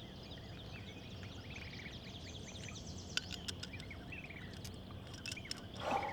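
Small birds chirping and twittering in quick runs of short notes over low steady outdoor background noise, with a few sharp clicks about three and five seconds in and a short breathy rush just before the end.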